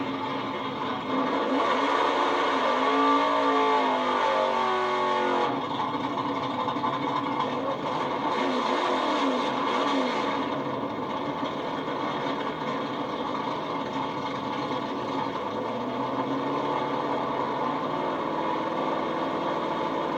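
Racing engines at a drag strip running steadily, with revs rising and falling a couple of times.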